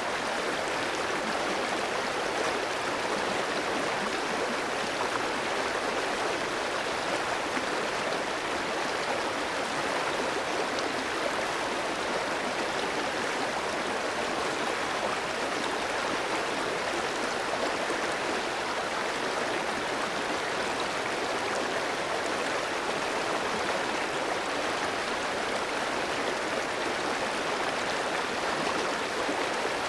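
Clear mountain stream flowing over rocks: a steady, even rush of water with no change.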